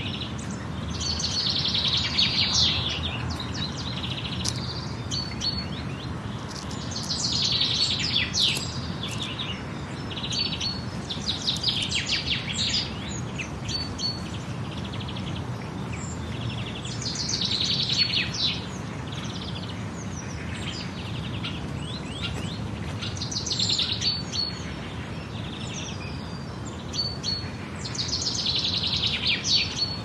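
Birds singing in the open: phrases of quick, high notes come about every five seconds over a steady low rush of background noise.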